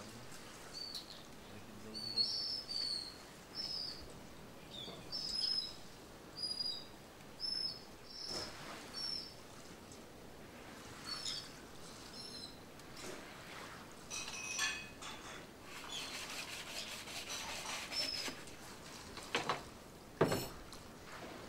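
Birds calling with short, high, repeated chirps. Later comes a few seconds of fine buzzing noise, then two sharp knocks near the end, the second the loudest.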